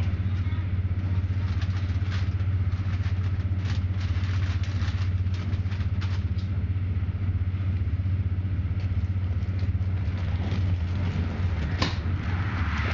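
Passenger train running, heard inside the carriage: a steady low rumble with scattered light clicks and rattles, and one sharper click near the end.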